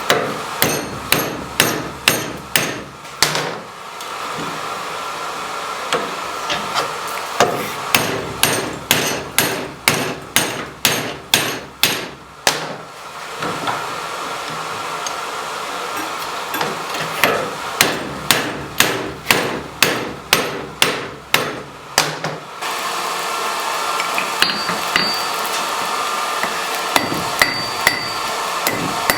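Blacksmith's hammer striking metal on an anvil in three runs of quick blows, about two to three a second, each ringing briefly, with a few single strikes near the end. A steady rushing noise fills the pauses between runs.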